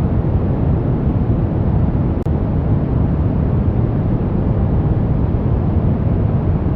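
Brown noise: a steady, deep hiss with most of its weight in the low end, broken once by a momentary dropout and click about two seconds in.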